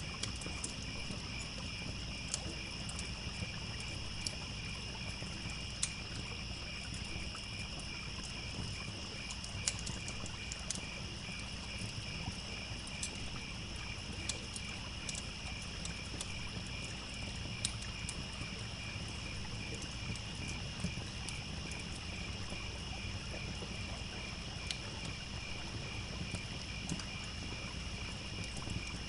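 Crickets chirping in a steady, evenly pulsing chorus, over the pops of a crackling wood fire and the low, even rush of a trickling stream.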